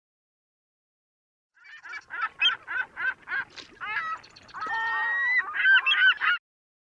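Geese honking in a rapid run of calls starting about a second and a half in, with a few longer drawn-out honks in the middle, stopping suddenly near the end.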